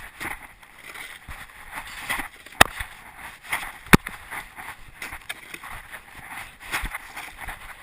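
1/8 scale RC monster truck jolting over rough ground: an uneven rattle and scrape with two sharp knocks, about two and a half and four seconds in.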